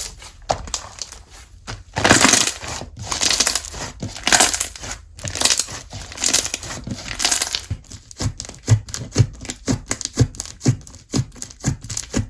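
Slime being squeezed and stretched by hand, with crackling surges in the first half. It turns into a quick run of sticky clicks and pops from about eight seconds in.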